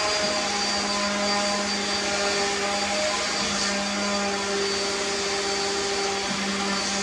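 Electric motor running steadily, a continuous drone with a steady hum over a dense whirring noise.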